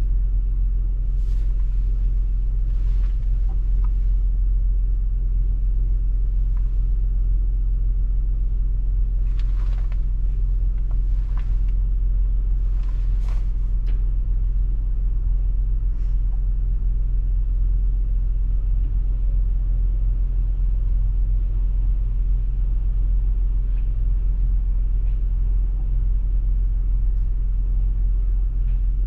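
Steady low road rumble of a car driving, heard as a deep, even drone. A few brief swishes rise over it near the start and again in the middle.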